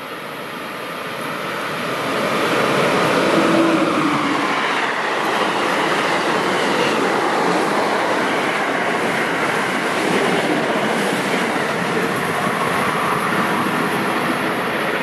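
Passenger train passing through a station at speed: the rush of wheels on rail and air builds over the first few seconds as it arrives, then stays loud and steady as the cars go by.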